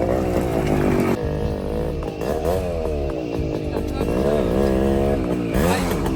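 Motorcycle engine revving up and down during an off-road ride, its pitch rising and falling again and again, about once a second.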